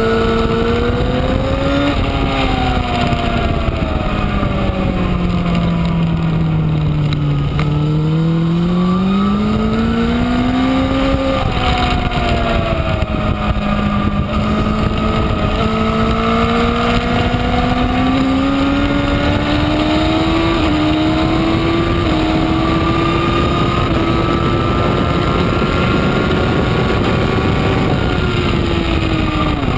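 2012 Honda CBR1000RR's inline-four engine heard from on board at speed, its pitch climbing and falling as the bike accelerates and brakes, over a steady rush of wind noise. The note drops to its lowest about seven seconds in, climbs again, then rises slowly over a long stretch before falling near the end.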